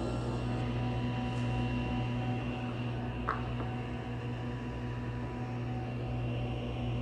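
Table saw motor running steadily, an even hum with constant tones. One brief tick about three seconds in.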